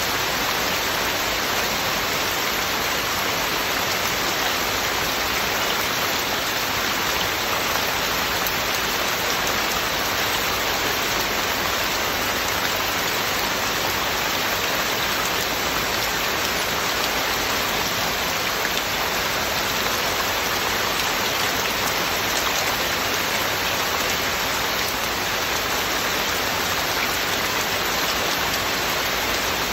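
Heavy rain falling steadily, an even unbroken hiss with no thunder and no music.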